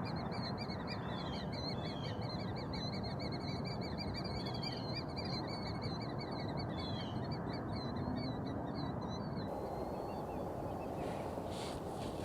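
Birds calling at a lakeshore: a fast, continuous high warbling trill with a few short falling notes mixed in, stopping about three-quarters of the way through, over a steady rushing background noise. A few brief clicks near the end.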